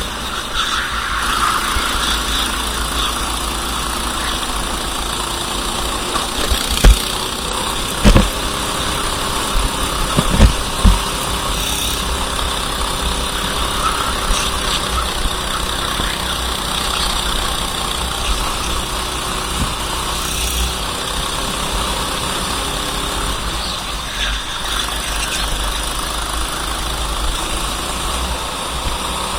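Racing kart engine running on track, its pitch slowly rising and falling, with a few sharp thumps between about seven and eleven seconds in.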